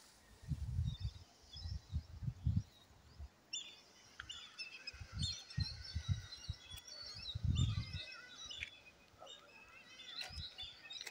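Several birds chirping and singing in short, warbling phrases, busiest from about three and a half seconds in, over irregular low thumps.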